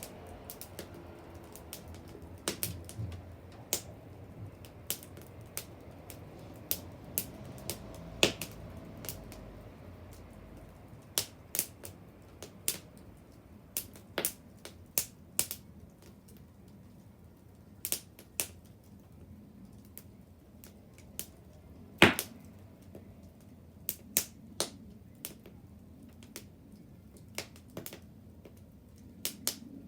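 Wood bonfire crackling: sharp, irregularly spaced pops and snaps from burning wood, with one loud snap about two-thirds of the way through.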